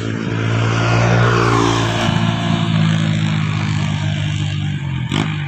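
A truck's engine running hard under load, its pitch dropping a little over the first two seconds and then holding steady. A short sharp knock comes near the end.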